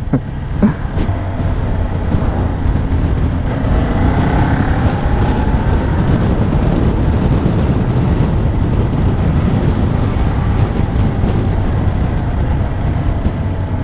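Steady rush of riding wind on a motorcycle rider's microphone, with the motorcycle's engine running underneath. About four seconds in, an engine note rises and then falls away.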